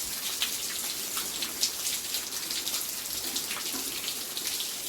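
Steady rain falling, a constant hiss with many separate drops ticking close by.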